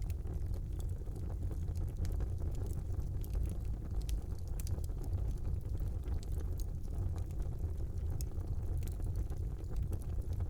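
Fire burning in a brick fireplace: a steady low rumble of flames with scattered sharp crackles and pops throughout.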